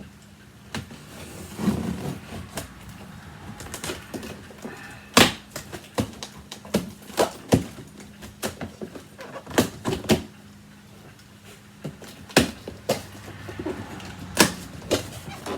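Large cardboard box being opened and handled: irregular knocks, clicks and scrapes of cardboard and packaging, over a low steady hum.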